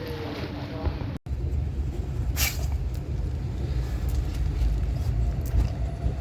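Low, steady rumble of a running road vehicle, beginning abruptly after a brief cut about a second in.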